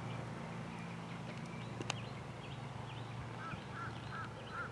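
A bird calling a series of short repeated notes, about two a second, starting about three seconds in, over a low steady hum, with a single faint click about two seconds in.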